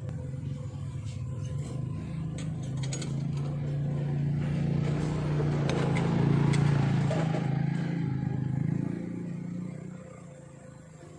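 Motorcycle engines running through a single shared exhaust pipe, with a steady low note that grows louder through the middle and drops back near the end.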